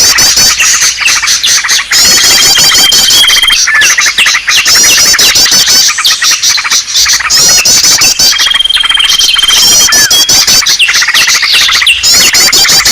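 A loud, dense chorus of many small songbirds chirping and calling in agitation at once, the kind of noisy small-bird recording used as a lure to draw birds to a trap. A held high whistled note sounds twice, about two seconds in and again past the middle.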